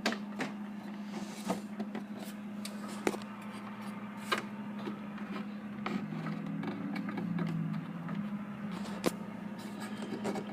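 Scattered light clicks and knocks as a wooden shelf barrier is handled and pushed into place on a plastic fridge door shelf, over a steady low hum.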